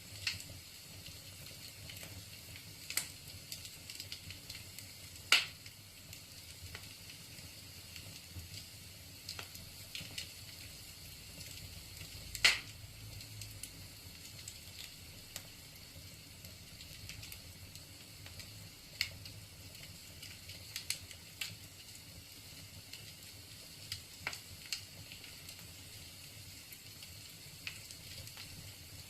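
Wood fire burning in a fireplace: a steady soft hiss with scattered crackles and sharp pops, the two loudest about five and twelve seconds in.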